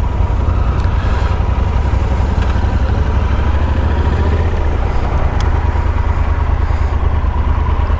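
Yamaha Super Ténéré parallel-twin motorcycle riding steadily at road speed: a constant low engine drone mixed with wind rumble on the onboard microphone, with a faint steady whine.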